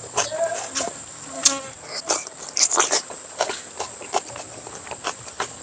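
Close-up eating sounds: irregular chewing, smacking and mouth clicks. Under them runs a steady high-pitched insect drone.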